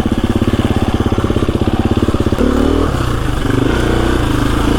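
KTM 350 EXC-F's single-cylinder four-stroke engine chugging at low revs with distinct firing pulses, then picking up revs about two and a half seconds in and running on more smoothly.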